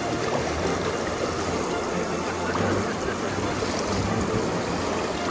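Steady rush of river water flowing over rocks, an even noise with no breaks.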